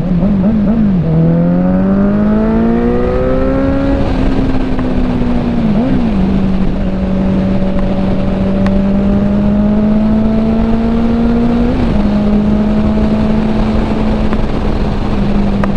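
Kawasaki Z900's inline-four engine running through an aftermarket CS Racing stainless exhaust while the bike is ridden. The revs climb over the first few seconds and then hold fairly steady, with a brief kink in pitch at gear changes about six and twelve seconds in.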